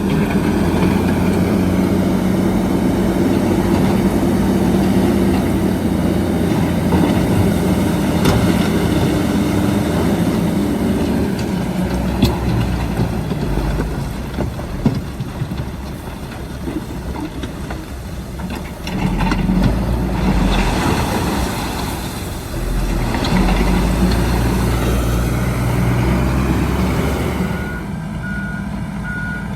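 Diesel engines of heavy earthmoving machinery working under varying load, the sound swelling and easing, with a few sharp clanks. Near the end a reversing alarm starts beeping steadily.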